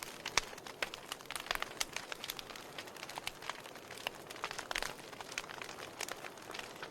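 Wood fire burning in a fireplace: logs crackling with frequent, irregular sharp pops over a soft steady hiss.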